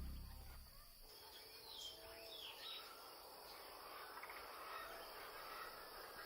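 Faint outdoor nature ambience of steady insect noise with a few short bird chirps about two seconds in. A music bed fades out in the first second.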